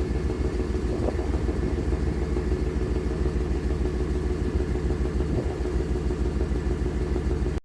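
A vehicle's engine idling steadily in the cold after a cold start; the sound cuts off suddenly at the very end.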